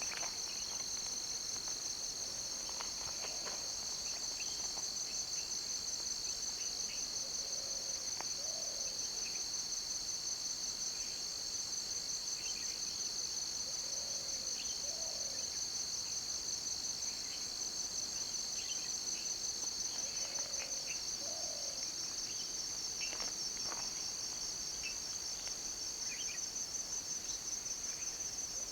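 A dense, steady insect chorus with a high, fast-pulsing trill. Faint short calls come through in the background every few seconds.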